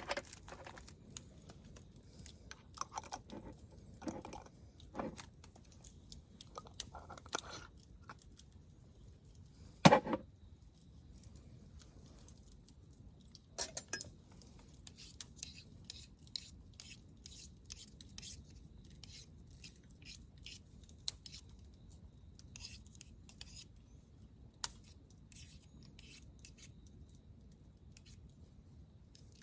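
Dishes and utensils being handled during food preparation: scattered clinks and small knocks, one sharp knock about ten seconds in, then a run of quick light clicks in the second half.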